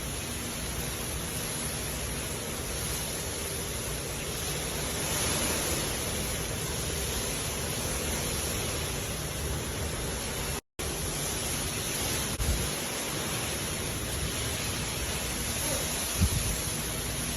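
Heavy rain falling in a steady, even hiss. The sound cuts out for a split second just past the middle, and two brief low thumps come later, one of them near the end.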